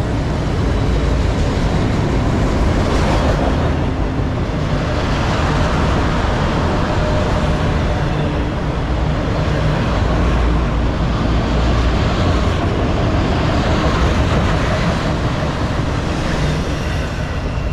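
Freight train of enclosed autorack cars rolling past close by: a loud, steady rumble and clatter of steel wheels on the rails. It eases slightly near the end as the train's tail approaches.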